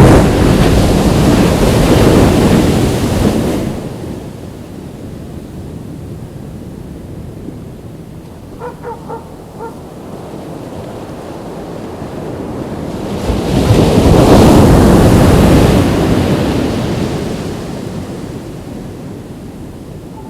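Ocean waves breaking on a beach: one wave crashes and washes in at the start and fades after about three and a half seconds, and a second swells up and breaks about two-thirds of the way through, with a quieter steady wash between. A few short, faint pitched notes sound about nine seconds in.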